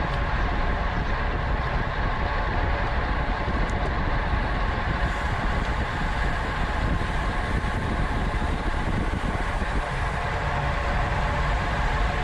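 Steady wind rush and road noise from a road bike ridden at race speed, with wind buffeting the microphone.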